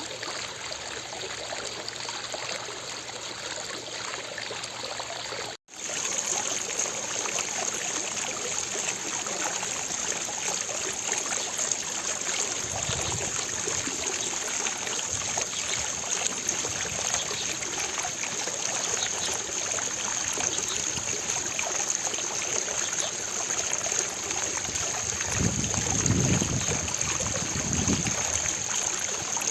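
Fountain water falling and splashing in a steady rush. About five and a half seconds in it cuts out for an instant and comes back a little louder.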